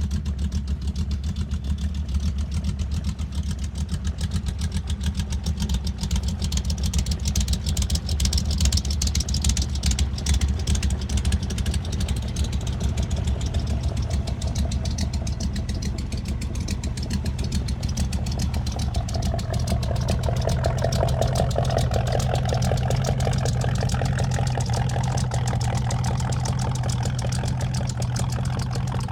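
1965 Ford Mustang V8 exhaust running steadily at idle, its note shifting slightly partway through.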